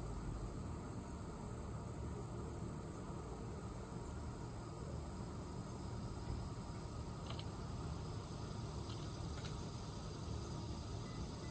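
A steady high-pitched insect trill, like crickets, over a low outdoor rumble, with a few faint short chirps near the end.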